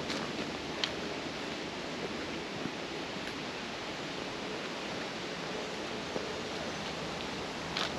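Steady, even outdoor rushing noise, with two faint clicks, one about a second in and one near the end.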